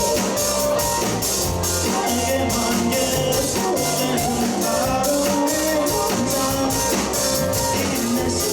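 Rock band playing live: guitars, bass guitar and drum kit, with cymbals struck on a steady beat.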